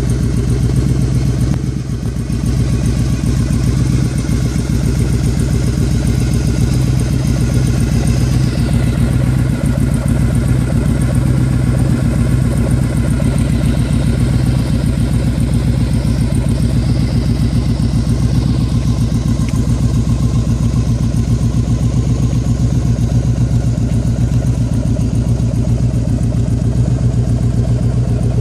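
Yamaha Drag Star 1100's air-cooled V-twin idling steadily through an aftermarket Cobra exhaust.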